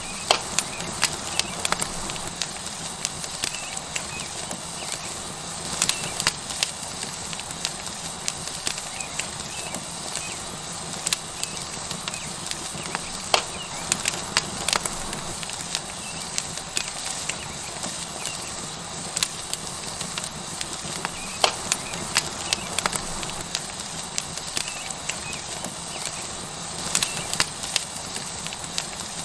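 Tomahawk steak sizzling on a hot rock over a wood fire: a steady hiss with frequent irregular pops and crackles.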